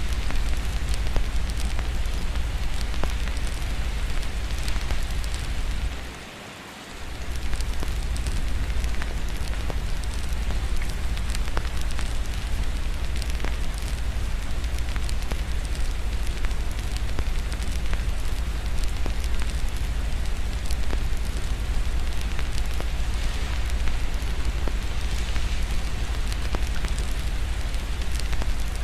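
Fireplace crackling, with many small sharp pops, over a steady rain hiss and a constant low rumble underneath. The whole mix dips sharply for about a second around six seconds in, then returns.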